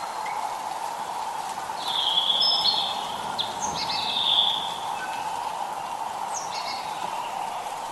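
Several songbirds singing and chirping over a steady background hiss of drizzle; the loudest phrases come about two and four seconds in.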